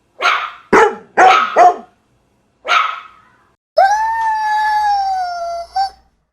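A dog barking: four quick barks, then a single bark, then one long howl of about two seconds that holds its pitch and sags slightly at the end.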